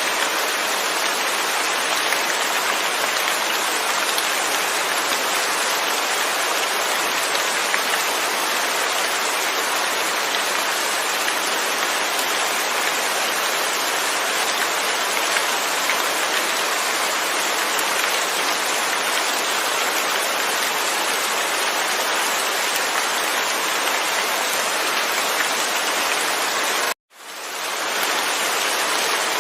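Steady heavy rain falling, an even dense hiss. Near the end it cuts out for an instant and fades back in over about a second.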